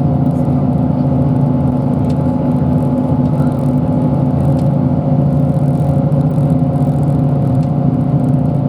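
Bus engine and road noise heard from inside the passenger cabin while the bus drives along at a steady pace, a constant hum with a few steady tones.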